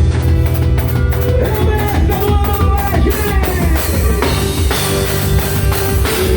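Rock music with a drum kit played at a steady driving beat, regular cymbal and drum hits, under a held and sliding melody line.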